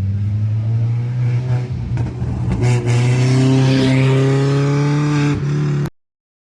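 Drift car's engine held at high revs, its note slowly rising and getting louder about three seconds in, then the sound cuts off suddenly just before the end.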